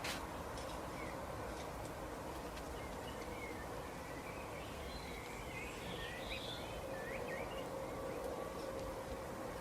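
Small birds giving scattered short chirps over a steady background hum and hiss, with a sharp click at the very start.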